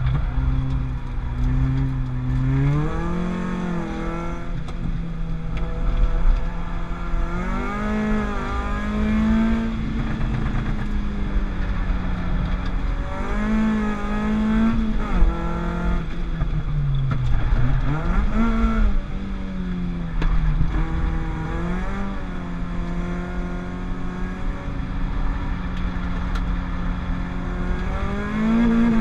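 Peugeot 205 GTI's 206 RC four-cylinder engine on a lap of a track, heard from inside the car, repeatedly revving up through the gears and dropping back at each shift and for corners, running really well.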